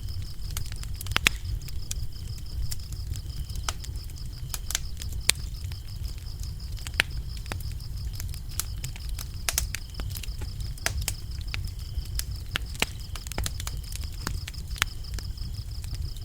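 Wood fire crackling, with irregular sharp pops over a low steady rumble, while crickets chirp steadily and high-pitched throughout.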